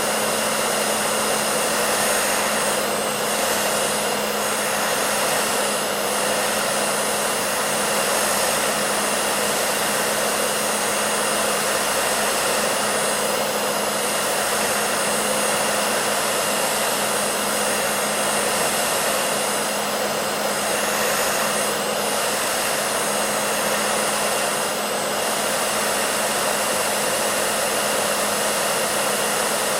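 Hair dryer running steadily: an even rushing of air with a constant low motor hum underneath.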